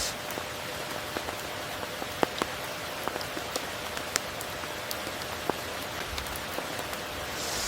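Steady rain falling, with scattered sharp drop impacts ticking through it and a brief swell of louder hiss right at the end.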